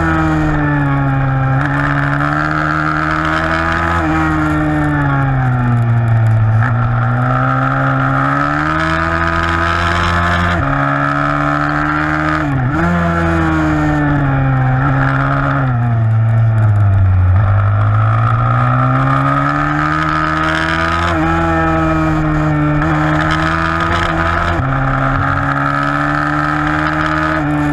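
A 160cc pitbike engine racing, its pitch rising and falling every few seconds as it accelerates and backs off, with a brief sharp drop in revs about twelve seconds in.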